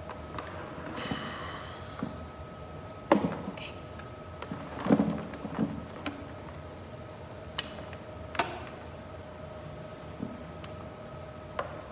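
Scattered clicks and knocks of a Nespresso VertuoNext coffee machine being handled and turned, the sharpest about three seconds in and a short cluster about five seconds in, over a faint steady hum.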